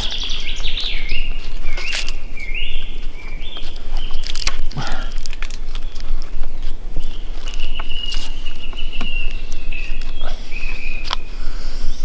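Songbirds singing in woodland, repeated short phrases and a longer trill in the second half, over a steady hiss, with scattered sharp clicks and knocks from hands working a screw and rope lashing on a steel pull-up bar fixed to a tree.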